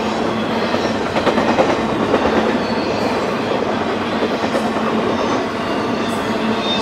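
BNSF intermodal freight train's cars rolling past: steady rumble of steel wheels on rail, with a louder run of clattering from about a second in to about two and a half seconds in.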